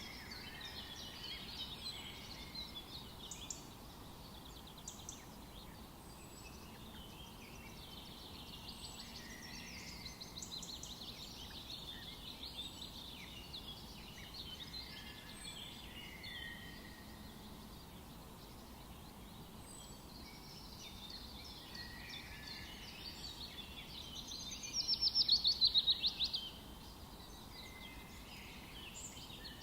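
Several wild birds singing and calling over one another, with faint steady forest background noise. Near the end one bird gives a loud, fast trill of rapidly repeated notes.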